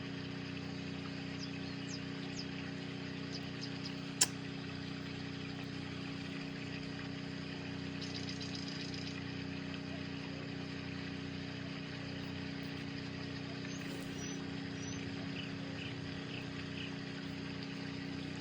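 Steady machine hum with several even tones and light hiss, broken by a single sharp click about four seconds in.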